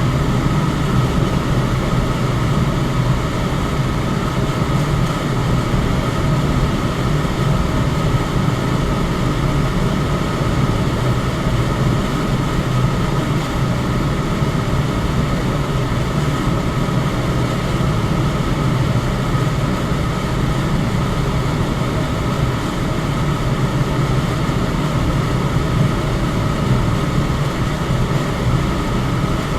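Electric fan running steadily: an even rush of air with a low hum and a faint high tone.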